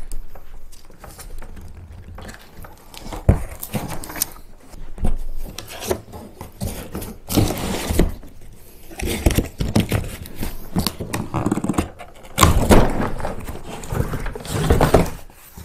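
A cardboard shipping box being opened and a folded hard-plastic kayak pulled out of it: irregular scraping and rustling of cardboard and plastic, with louder bursts about halfway through and again near the end.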